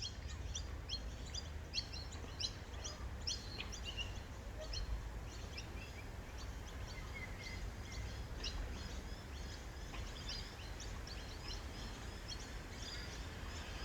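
Birds chirping rapidly and repeatedly in many short, high-pitched calls, over a steady low rumble.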